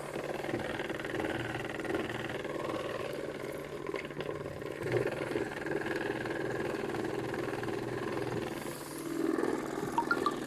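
Washing machine running with a steady motor hum, the drum working with small swells in level. A few short ticks near the end.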